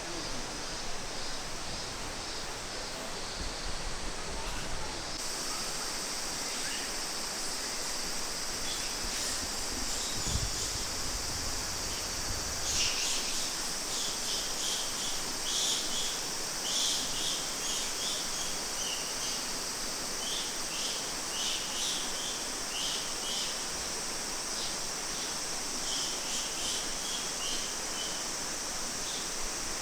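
Steady rush of flowing water, with a high hiss that strengthens sharply about five seconds in. From about twelve seconds in, a small bird chirps repeatedly in short high calls.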